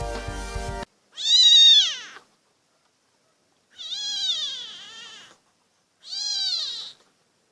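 Background music cuts off abruptly just under a second in, then a cat meows three times, each high call rising and falling in pitch; the middle meow is the longest, with a double rise.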